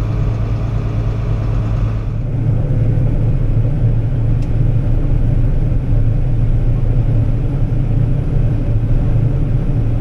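Tractor engine pulling a grain cart, running steadily at constant speed with a deep drone heard from inside the cab; a lower part of the hum drops out about two seconds in.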